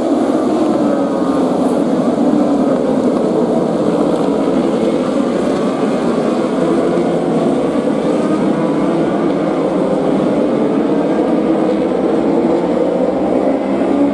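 Several racing motorcycle engines running together, their pitch rising and falling as they rev and pass, over a steady wash of engine noise.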